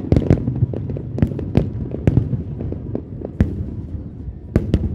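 Aerial fireworks display: a series of sharp bangs and cracks from bursting shells at irregular intervals, with a pair of the loudest near the end, over a continuous low rumble of further bursts.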